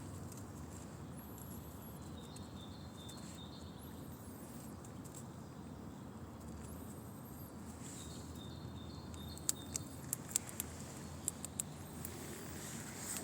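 Outdoor background with small birds giving short, high calls every second or two. About three-quarters of the way through comes a quick run of sharp clicks, the loudest sounds here.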